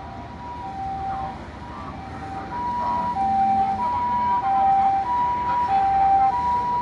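Japanese ambulance two-tone siren, the "pee-po" hi-lo call, stepping back and forth between a higher and a lower note about every 0.6 s. It grows louder about halfway through.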